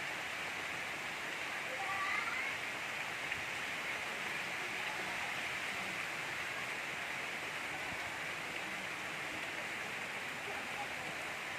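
Steady gentle rain falling, an even hiss with no thunder, with a brief faint high chirp about two seconds in.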